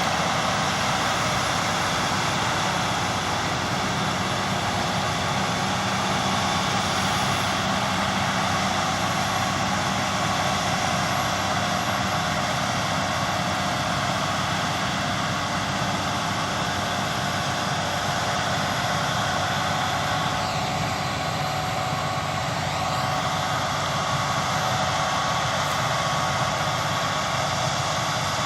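Claas Lexion 660 combine harvester running steadily while harvesting: an unbroken engine and threshing drone with several held tones.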